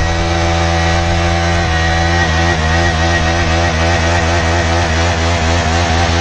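KTM Duke 390's single-cylinder engine held at high revs during a burnout, the rear tyre spinning in place on wet concrete; the revs start wavering rapidly about two seconds in.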